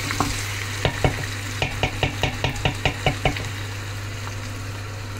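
Trotters frying and sizzling in oil in a stainless steel pot, stirred with a wooden spoon that knocks against the pot and the bones in a quick run of clicks during the first three seconds or so, then just the steady sizzle.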